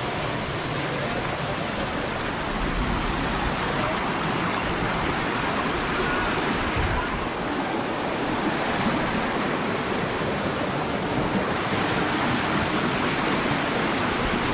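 Waterfall's falling water rushing steadily, an even continuous noise.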